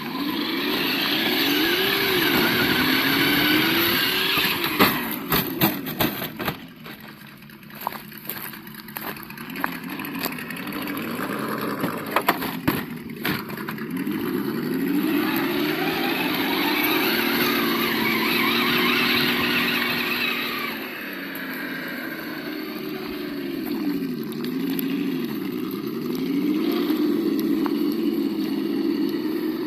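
Engine sound from the sound module of an Absima Yucatan 1:8 RC car: a simulated motor note whose pitch keeps rising and falling with the throttle. Under it runs a rushing noise, with scattered sharp knocks a few seconds in and again around the middle.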